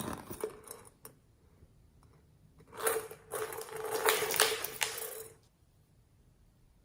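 Slime being squished and worked by hand, with sticky, crackling squelches. There is a short burst at the start and a longer one of about two and a half seconds from near the three-second mark.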